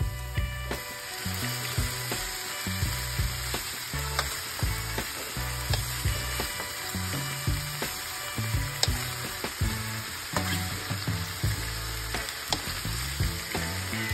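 Onions, garlic and chicken feet frying in a metal wok with a steady sizzle, while a wooden spatula stirs and scrapes against the pan with short clicks now and then.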